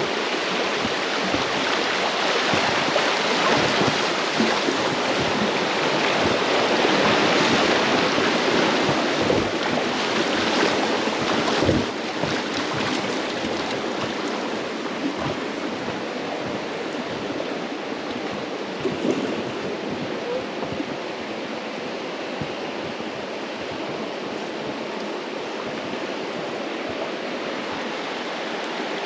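River water rushing and splashing around an inflatable raft in whitewater. It is loudest in the middle, with a single thump about twelve seconds in.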